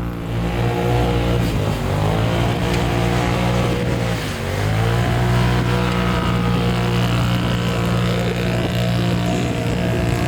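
UTV engine running hard under load, steady, with its pitch dipping briefly about four seconds in and climbing back as it bogs and recovers.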